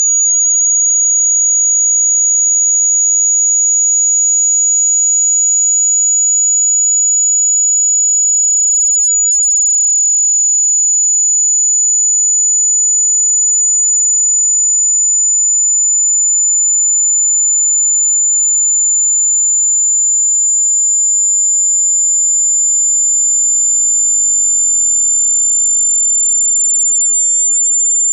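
A single loud, very high-pitched pure sine tone that rises slowly and steadily in pitch. It is a synthesized water-eject tone for clearing water and dust from a phone speaker.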